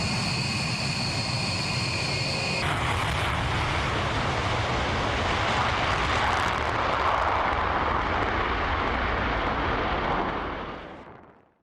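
B-1 bomber's turbofan jet engines: a steady high whine at first, then about three seconds in a louder rushing jet noise takes over. The sound fades out quickly near the end.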